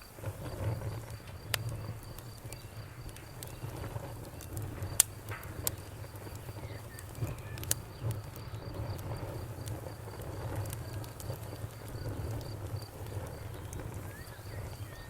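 Bonfire crackling, with a steady low rumble and scattered sharp pops, the loudest about five seconds in. Crickets chirp throughout in a fast, even pulse.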